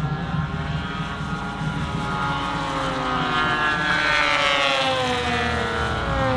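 Propeller engine of a radio-controlled scale WW2 fighter model making a fly-by. The engine note builds to its loudest about four seconds in, then falls in pitch as the plane passes.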